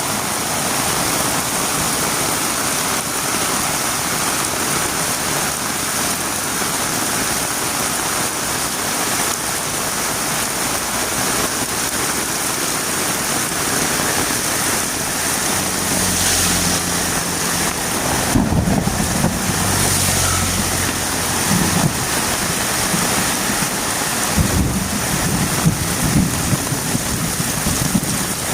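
Heavy rain falling in a steady hiss. In the second half a low, uneven rumble comes and goes under it.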